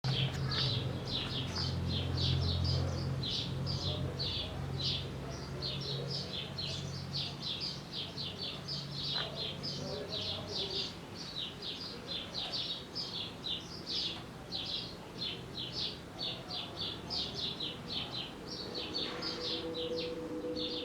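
Small birds chirping rapidly and continuously, several short high chirps a second, over a low steady hum that fades out about halfway through.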